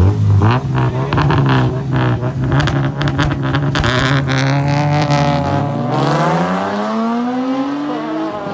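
Car engines held at high revs on the start line of a drag race, with rapid crackling over a steady engine note. About five and a half seconds in the cars launch: the engine pitch climbs steadily under hard acceleration and drops at a gear shift near the end.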